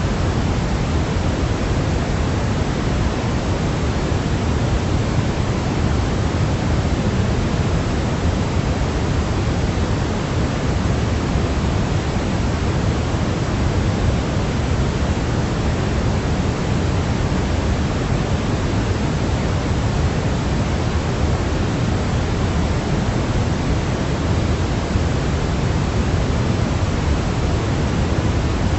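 Steady baby-sleep white-noise track: a constant, even hiss weighted toward the low end, like pink noise, with no change or events.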